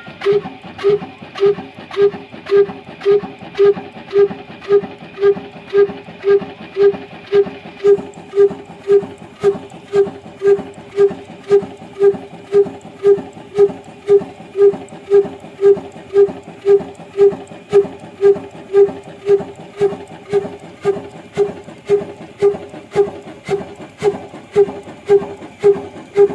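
Old single-cylinder stationary diesel 'black engine' running steadily at slow speed, with an even beat of about two exhaust thumps a second.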